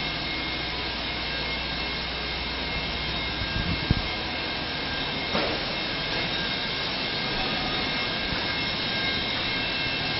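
Steady mechanical drone with faint constant whines, like machinery running, and a few light clicks about four seconds in.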